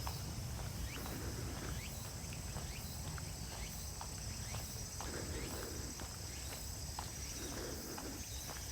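Footsteps on a woodland trail under a steady high-pitched chorus of insects, with scattered short sharp ticks.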